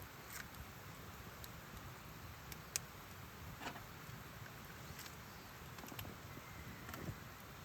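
Quiet outdoor ambience: a steady low rumble with scattered faint clicks and ticks, one sharper click about three seconds in.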